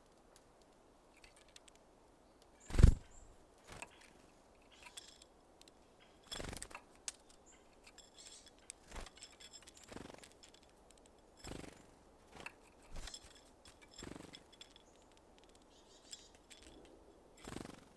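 Small birds at a feeder, likely varied tits and Japanese tits: a series of irregular taps and knocks as they land and peck or hammer at sunflower seeds. The loudest is a sharp knock about three seconds in.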